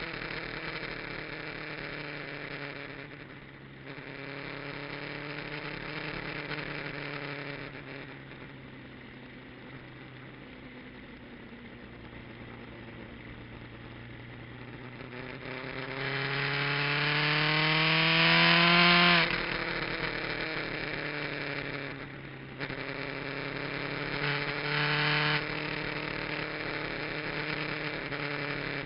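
Kawasaki GPZ900R inline-four motorcycle engine on an aftermarket muffler, heard onboard at track speed, rising and falling through the gears. About two-thirds of the way through a long climbing rev builds to the loudest point and cuts off sharply at a gear change or throttle close, with brief drops in engine note at shifts earlier and later.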